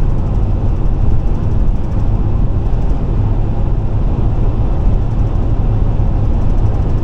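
Car driving at interstate speed: a steady, loud low rumble of road and engine noise.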